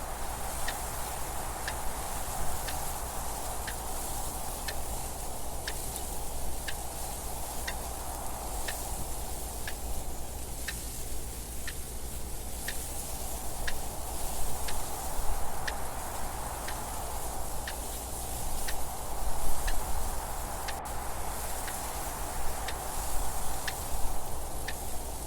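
Clock ticking steadily at an even pace, over wind noise that rises and falls in slow gusts.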